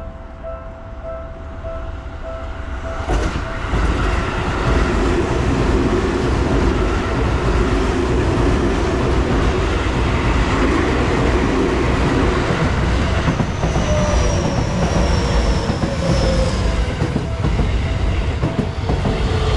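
A train passing through a railroad crossing, its wheels clattering over the rail joints in a loud, steady rumble that builds a few seconds in. Steady warning tones from the crossing are heard at the start, and a faint, slowly falling whine comes about two-thirds through.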